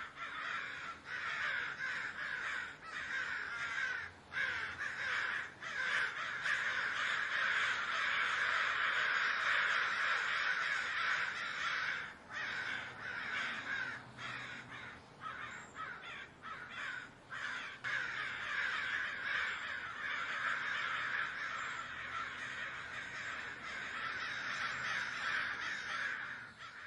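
A flock of crows cawing, many calls overlapping into a dense, continuous chorus that stops suddenly at the end.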